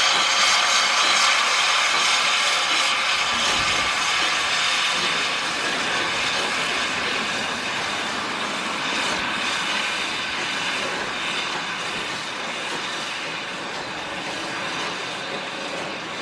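Short heritage train of a small steam locomotive and one coach running on rails: a steady rolling noise that slowly grows quieter.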